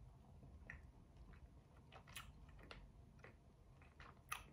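Faint chewing of a sour gummy worm, with soft wet mouth clicks and squishes and one sharper click a little after four seconds in.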